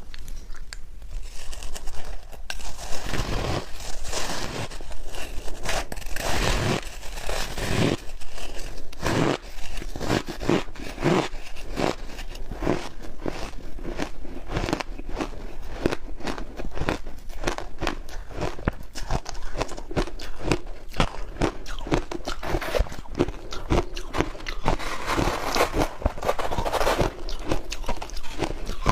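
Close-up chewing of crunchy ice: a dense, irregular run of loud crunches and sharp cracks as ice cubes are bitten and ground between the teeth.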